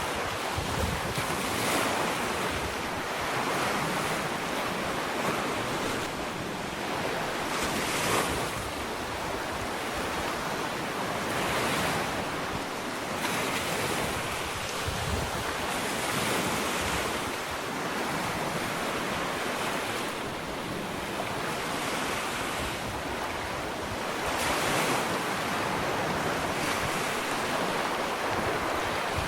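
Gentle ocean waves breaking and washing onto a sandy beach, a steady rushing surf that swells every few seconds, with some wind noise on the microphone.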